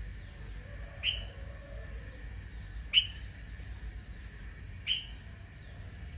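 A bird giving three short, sharp calls, evenly spaced about two seconds apart.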